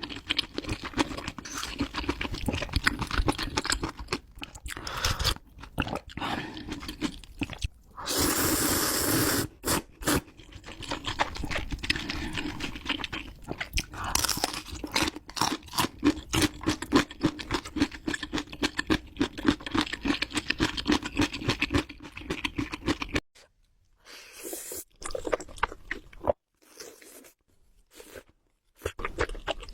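Close-miked eating sounds: steady chewing with crisp crunching bites and wet mouth sounds, with a louder noisy stretch about eight seconds in. Near the end the chewing thins out into a few scattered quieter bites.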